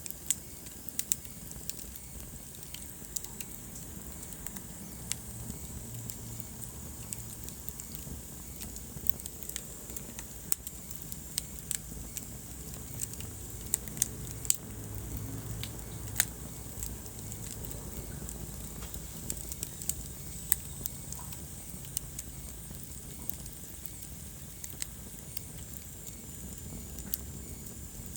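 Wood fire burning in a fireplace: a low steady rumble and hiss of flame with irregular sharp crackles and pops, some much louder than the rest.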